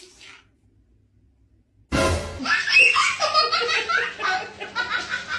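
A short click, then a pause of near silence. About two seconds in, laughter with music starts suddenly and runs on.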